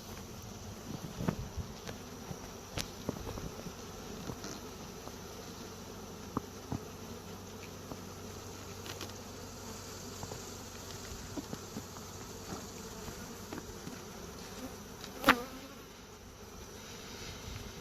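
Honey bee swarm buzzing steadily around a hive box, with scattered small taps and one loud sharp knock about 15 seconds in.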